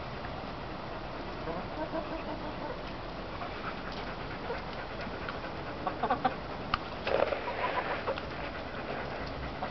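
Chickens making soft, faint calls, with a few sharp clicks and scratchy handling sounds about six to eight seconds in.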